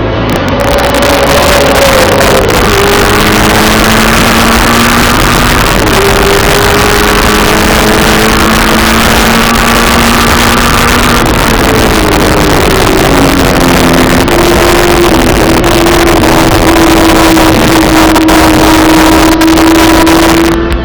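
Racing muscle-car V8 engine running hard at speed, loud over a dense rush of noise, its note dropping and climbing several times and holding steady for long stretches in between; it cuts off suddenly near the end.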